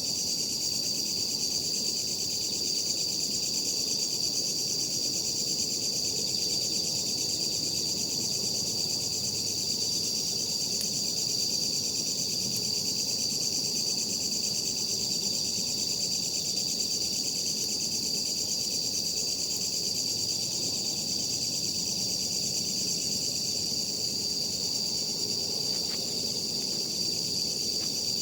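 A steady, unbroken chorus of crickets and other night insects: a constant high-pitched trill.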